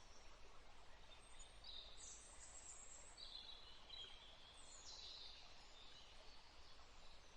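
Faint birdsong: a few high chirps and short calls over a soft steady hiss.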